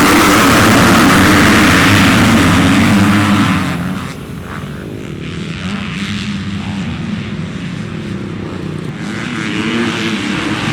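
Motocross dirt bike engines running hard at high revs, loud for the first three and a half seconds, then dropping to a more distant, wavering drone as the bikes move away.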